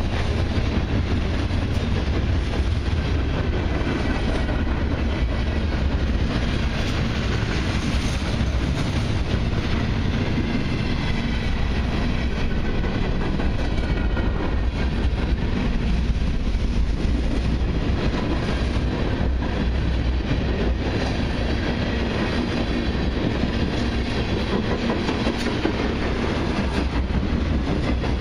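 Cars of a long freight and autorack train rolling past steadily, with a constant low rumble.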